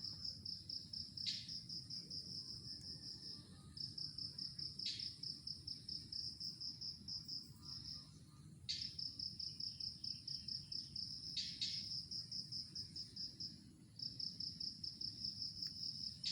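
Cricket trilling: a high, rapidly pulsed song in long runs of three to five seconds with short breaks, with a few brief sharper chirps over it.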